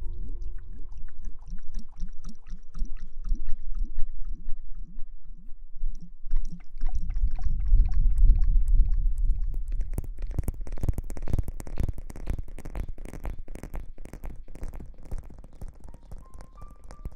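Close-miked ASMR hair-washing and rustling sounds: quick rhythmic wet strokes, about three or four a second. A deep rumble follows, then dense crackling rustles from about ten seconds in.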